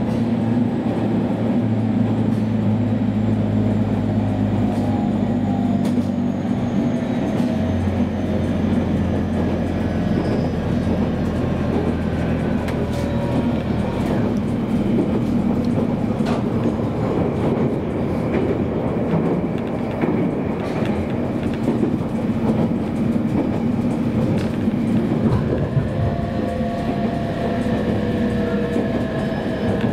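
JR Kyushu 815 series electric train running at speed, heard from inside the passenger cabin: a steady rumble of wheels on rail with scattered clicks over the track. Near the end a higher motor whine comes in and shifts in pitch.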